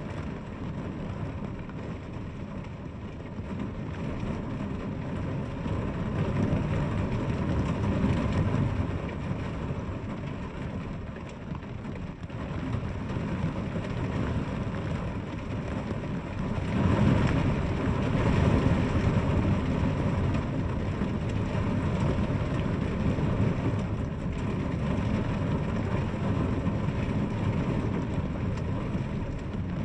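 Rain falling steadily, an even rushing hiss heaviest in the low end, that swells louder twice, about a quarter of the way in and again just past halfway.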